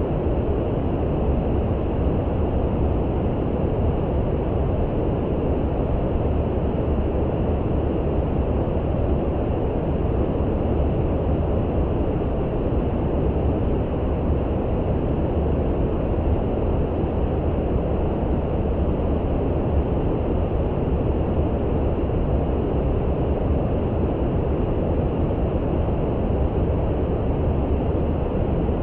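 Steady brown noise for sleep: an even, deep hiss, strongest in the low end, that does not change.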